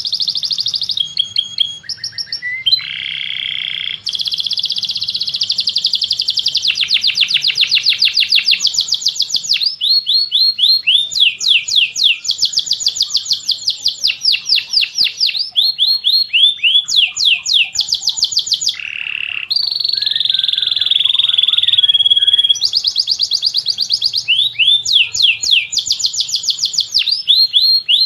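Songbird singing in fast trills of short, repeated sweeping notes, phrase after phrase with brief pauses between them.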